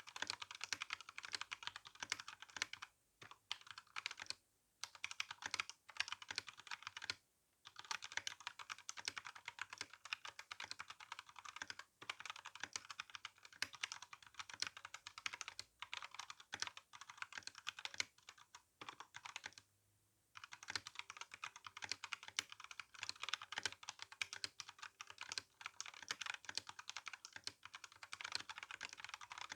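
Continuous typing on an RK61 mechanical keyboard with tactile brown switches and GSA keycaps: quick, dense keystroke clacks, broken by short pauses a few times, the longest near two-thirds of the way through.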